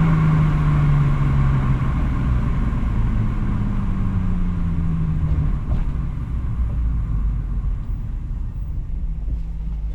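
Nissan 350Z's 3.5-litre V6 exhaust note falling in pitch as the car slows, twice, then settling into a low steady rumble.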